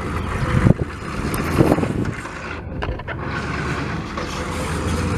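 A vehicle engine running steadily at low speed, with a few short knocks and rattles over it.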